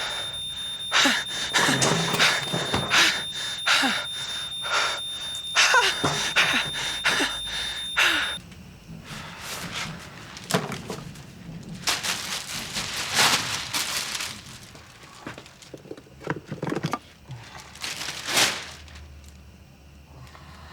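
A smoke alarm sounds a steady high tone over a rapid run of knocks and crashes, and the alarm cuts off about eight seconds in. Scattered thuds and crackling noise follow and die away.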